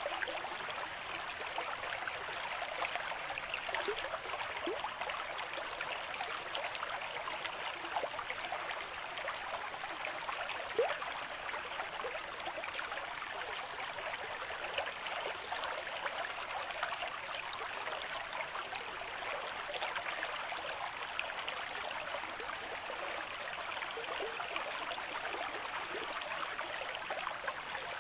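Stream water flowing steadily over rocks, a continuous bubbling and trickling rush with small splashes, one slightly louder near the middle.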